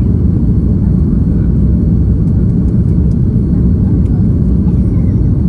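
Steady low rumble of a jet airliner in flight, engine and airflow noise heard from inside the passenger cabin.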